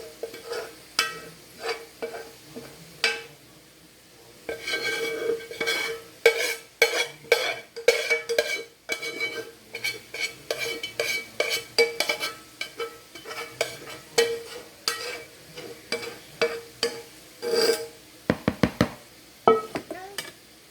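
Metal utensil clinking and scraping against a metal pan or bowl, many irregular strikes, each leaving a short metallic ring.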